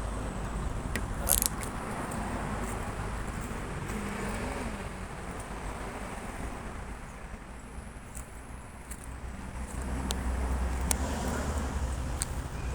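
Steady rumble of a car on the road, engine and tyres, easing off a little past the middle and building again near the end. A sharp click comes about a second and a half in, with a few fainter clicks later.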